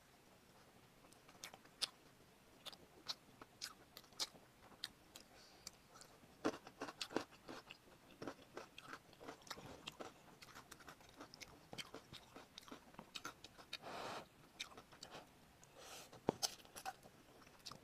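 Close-miked chewing and biting of glazed sweet and spicy fried chicken: many irregular, sharp crunchy clicks. About fourteen seconds in comes a short noisy burst as spicy cup noodles are slurped.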